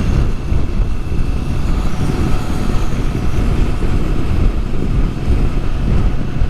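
Motorcycle riding at a steady cruising speed: a constant engine drone mixed with heavy wind rush on the microphone.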